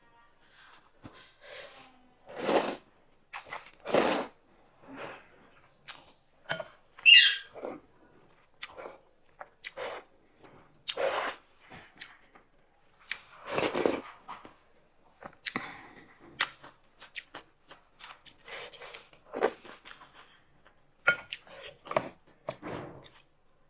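Close-up eating sounds of a person eating thukpa noodle soup and momos: irregular chewing and slurping noises, with one loud, high, squeaky slurp about seven seconds in.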